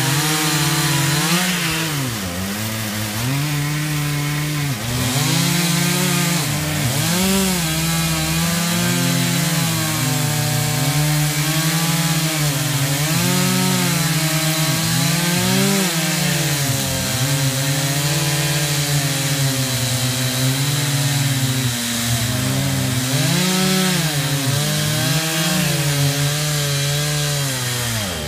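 Chainsaw engine running at high revs and cutting wood, its pitch sagging and recovering over and over as the chain bogs down under load and frees up.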